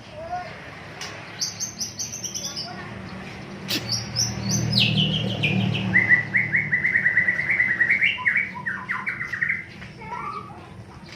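White-rumped shama (murai batu) singing: runs of quick repeated whistled notes, high-pitched at first, then stepping down into a long, fast series of repeated notes before easing off near the end.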